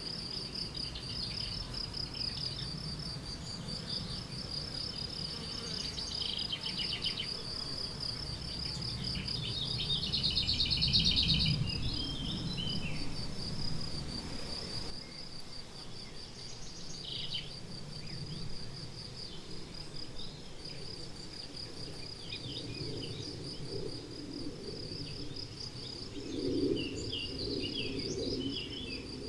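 A cricket trilling steadily in a high, evenly pulsing chirp, with songbirds calling and trilling at intervals over it. A low rumble sits underneath in the first half and fades out about halfway through.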